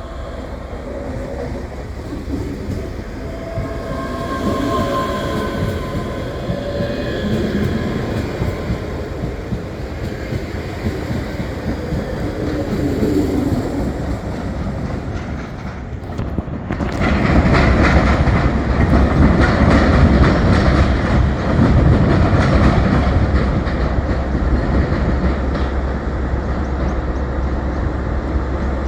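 A train moving through a station platform, its wheels clicking over the rail joints, growing sharply louder about two thirds of the way in as it comes close.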